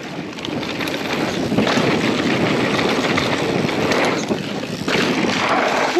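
Mountain bike riding down a dirt trail: wind rushing over the microphone and the tyres rolling on the ground make a steady, rough noise.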